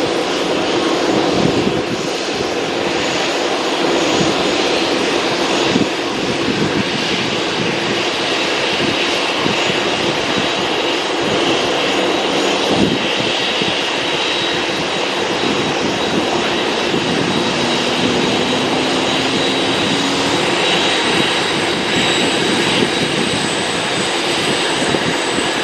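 Jet airliner engines running steadily, with a high whine coming in near the end.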